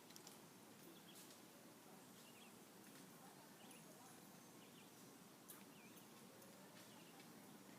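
Near silence: faint outdoor background with short, high chirps about once a second, as from a distant small bird.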